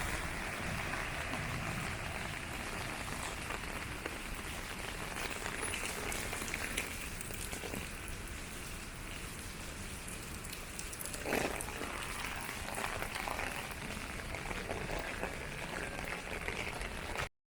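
Steady rain falling on pavement, with scattered individual drop hits and a brief louder swish about eleven seconds in. The sound cuts off abruptly just before the end.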